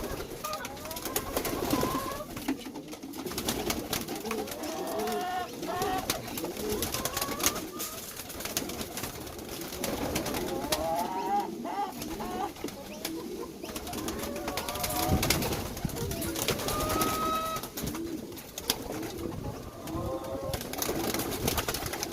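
Domestic pigeons cooing repeatedly in the loft, with scattered sharp clicks and knocks of the birds moving about.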